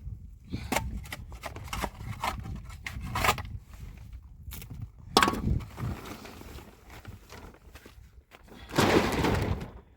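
Irregular knocks and scrapes, the loudest knock about five seconds in, and a second of dense scraping or rustling noise near the end.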